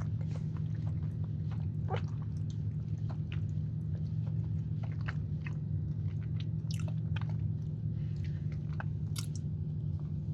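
A man chewing and biting a chocolate chunk cookie, with short wet mouth clicks and smacks scattered through. A steady low hum runs underneath.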